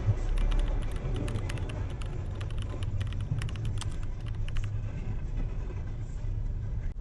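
A car driving, heard from the dashcam with a steady low road and engine rumble. A quick run of light clicks or ticks goes on over the first four seconds or so, then stops.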